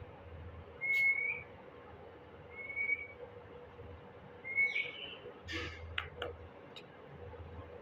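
Three short, thin whistled notes, each rising slightly at the end, followed by a few sharp clicks.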